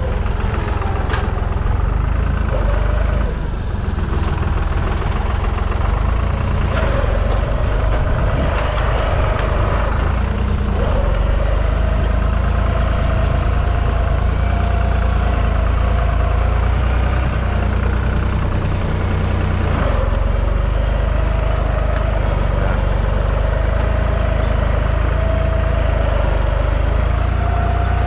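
Deutz 55F tractor's diesel engine running steadily, with a wavering whine over it.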